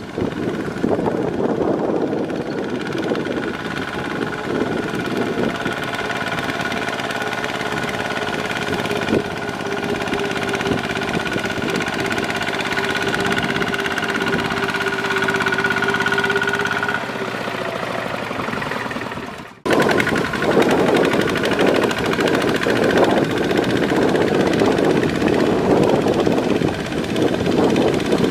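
Kubota ZT 140 hand tractor's engine running steadily under plowing load, with a brief cut out about two-thirds of the way through, then running louder and rougher.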